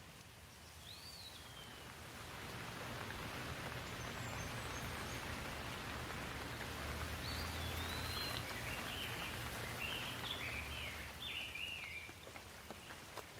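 Steady rain falling, swelling louder through the middle and easing near the end, with a bird calling briefly near the start and chirping a quick run of notes in the second half.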